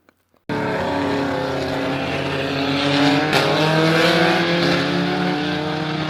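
Many car engines running together on an oval track, their pitches rising and falling against each other as the cars circle. It starts suddenly about half a second in.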